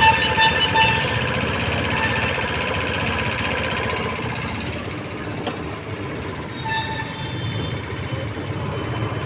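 Honda Activa scooter's single-cylinder four-stroke engine running steadily just after a new oil pump has been fitted, with a high steady tone over it in the first second and again briefly about seven seconds in.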